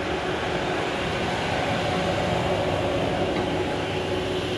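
Steady mechanical hum and rushing noise from a powered-up Universal Instruments Genesis GC30 pick-and-place machine standing idle in wait condition, with a faint steady tone under it.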